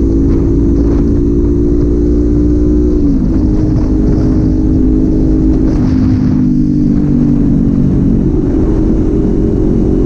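Kawasaki Z400 parallel-twin engine running on the road as the bike eases off. Its pitch sinks gradually, drops a step about three seconds in, and levels out toward the end, over a steady low rumble of wind and road noise.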